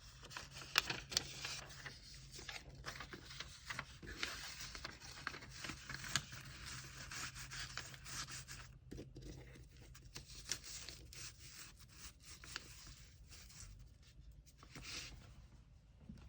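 Hands handling packaging paper, with irregular rustling, rubbing and tearing and small taps and clicks, busier in the first half and quieter after about nine seconds.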